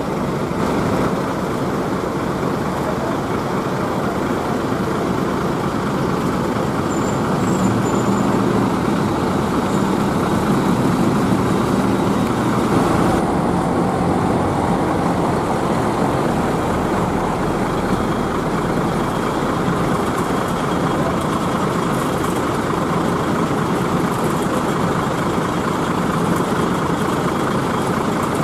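Heavy rain falling steadily, with large bus engines running underneath.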